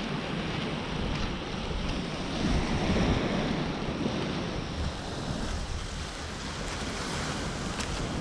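Surf washing onto the beach, with wind buffeting the microphone; the wash swells about three seconds in.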